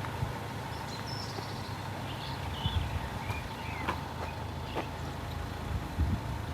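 A vehicle engine idling steadily, with a few short bird chirps over it.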